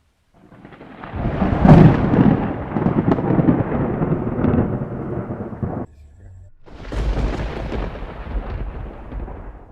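Thunder: a peal that builds to a loud crack and rolls on as a rumble, cut off abruptly about halfway through, followed by a second roll of thunder that fades away.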